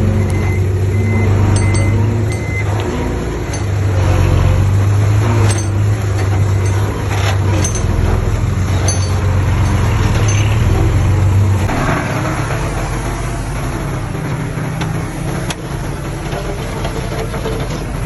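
Diesel earthmoving machinery running, with occasional sharp clanks. The low engine drone is strong until about twelve seconds in, then drops back.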